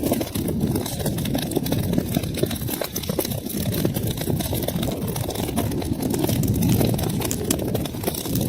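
Wood fire crackling in a fireplace: a dense, steady stream of small pops and snaps over a low roar of flames.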